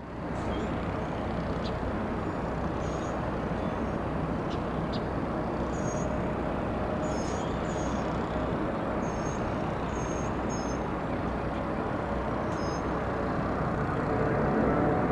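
Steady roar of jet aircraft engines at an airport, swelling slightly near the end, with small birds chirping faintly in the background.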